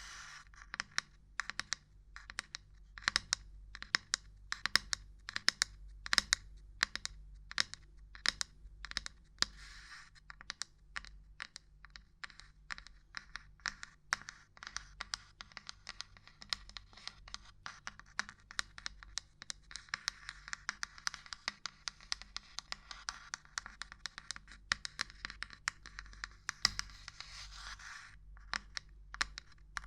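Irregular tapping and knocking on assorted small objects: sharp clicks at an uneven pace. From about two-thirds of the way through until near the end, a stretch of continuous scratching runs under the taps.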